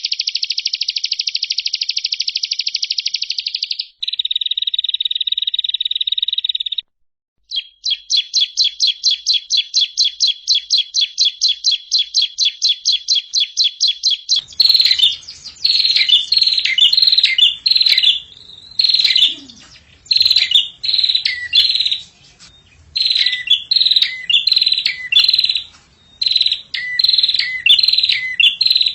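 Songbird song from a masteran training recording: rapid high trills in the first half, with a brief pause just before halfway, then a run of short repeated chirps, each falling in pitch, over a faint low hum.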